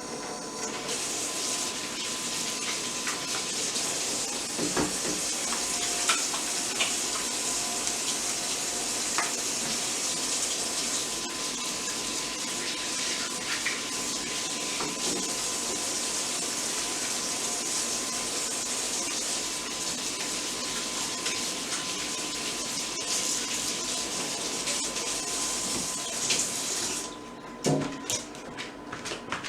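Kitchen tap running steadily into a sink while hands are washed under it, with a few small knocks on top. The water shuts off near the end, followed by a few sharp knocks.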